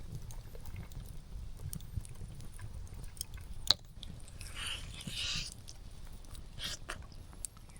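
Someone eating a barbecue-sauced chicken drumstick close to the microphone: scattered chewing and biting noises, with one sharp click a little before the halfway point.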